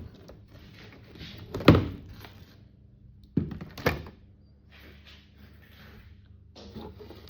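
Knocks and scraping as a section of model railway track is pried up off the layout's baseboard. The loudest knock comes about a second and a half in, with two more a little after three seconds and shortly before four, and faint rustling in between.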